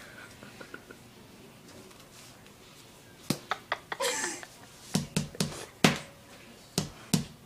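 Sharp knocks and clicks from handling a refrigerated biscuit-dough tube while trying to pop it open. Several strikes come in the second half, with a short vocal squeal or laugh among them.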